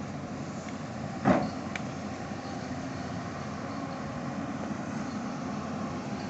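Heavy machinery engine running steadily, with one sharp loud knock about a second in and a small click just after.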